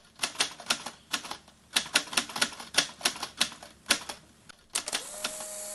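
Typewriter keys clacking in quick, uneven strokes. About five seconds in, the clacking stops and a steady tone begins.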